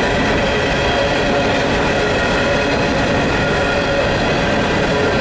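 Empty coal hopper cars of a freight train rolling past: a steady rumble of steel wheels on the rails, with no break or change.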